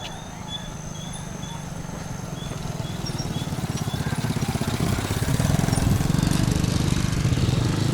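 A small motorcycle engine running and growing steadily louder as it approaches. Insects chirp in the first few seconds.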